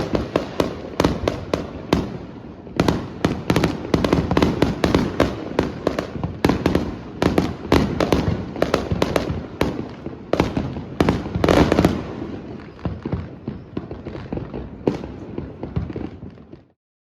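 New Year's fireworks going off in a dense barrage of overlapping bangs and pops. They thin out after about 12 seconds and then cut off suddenly shortly before the end.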